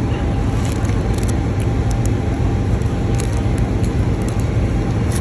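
A steady low engine rumble with a faint constant hum above it and a scattering of light high clicks.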